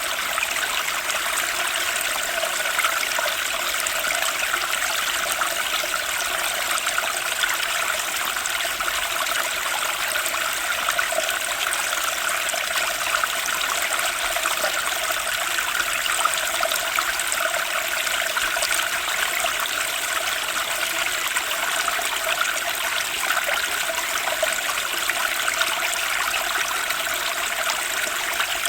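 Turbulent spring stream rushing and splashing steadily, with no let-up.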